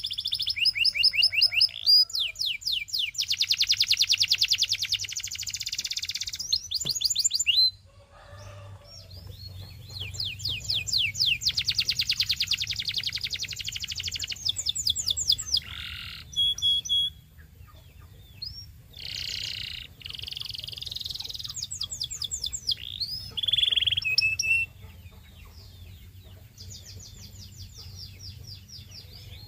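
Domestic canary singing: long fast trills of rapidly repeated high notes, broken by single chirps and short pauses, with quieter stretches about a quarter of the way in and again near the end. A faint low hum runs underneath.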